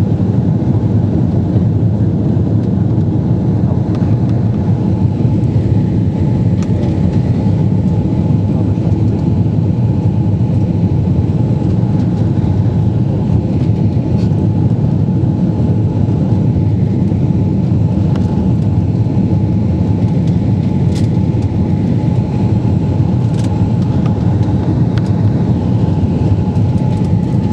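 Steady engine and airflow noise heard inside an airliner's passenger cabin, unchanging, with a faint steady hum above it.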